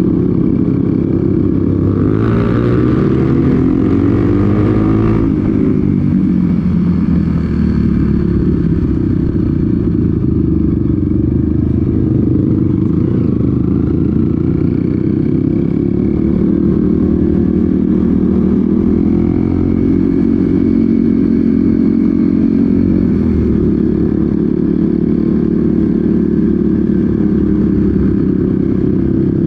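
Off-road motorcycle engine running under way on a trail, its revs rising and falling as the rider works the throttle. A brief rush of noise comes in between about two and five seconds in.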